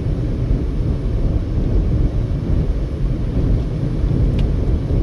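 Steady low rumble of a car travelling at highway speed: road, tyre and engine noise heard inside the cabin.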